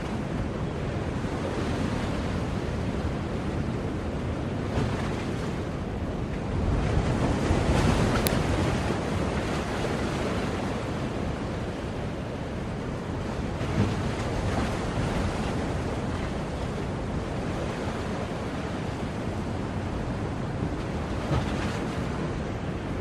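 Ocean surf: waves washing continuously on the shore, with one larger wave building and breaking about seven to nine seconds in.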